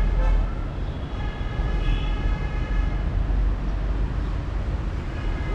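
A heavy vehicle running with a steady low rumble and a high whine that comes and goes.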